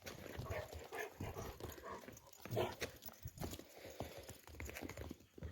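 An animal moving about: faint, irregular footfalls and rustling.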